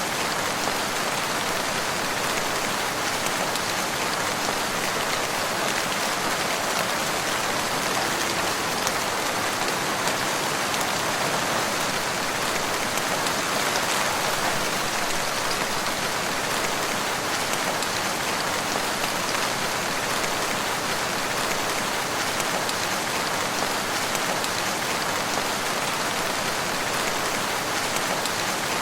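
Steady rain falling in a forest, an even patter of many drops on leaves and ground with no letup.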